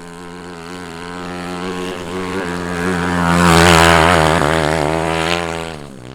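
A steady-pitched motor sound passing by: it grows louder to its peak a little past halfway, then fades away near the end.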